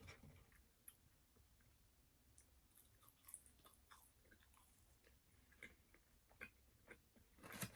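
Faint chewing close to the microphone: scattered soft clicks and small crunches of someone eating fried food.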